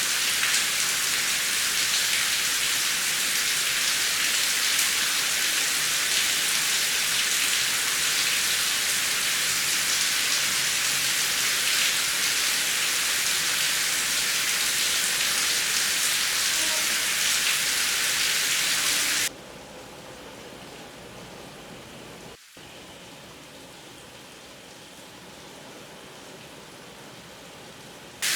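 Steady heavy rain, an even hiss. About two-thirds of the way through it drops suddenly to a much softer hush for several seconds, then comes back at full strength right at the end.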